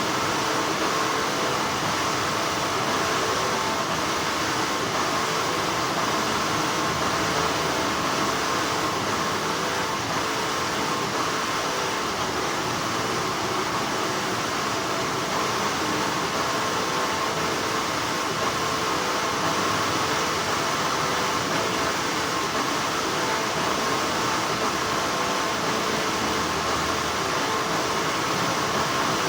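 Continuous, steady hum of textile factory machinery, a level noise with a faint high whine running through it.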